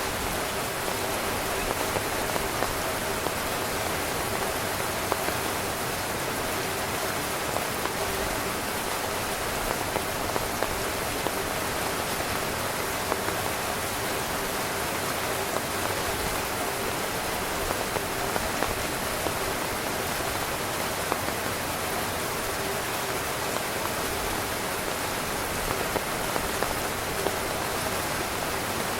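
Steady rain falling on a tent, an even hiss with frequent louder individual drops tapping on the fabric.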